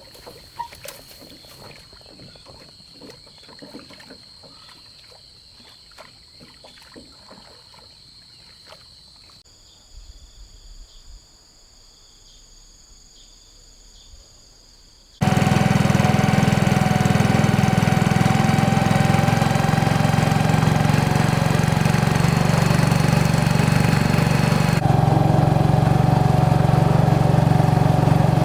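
Insects chirring steadily with scattered light knocks. About halfway through, a small engine comes in abruptly and keeps running loudly and steadily.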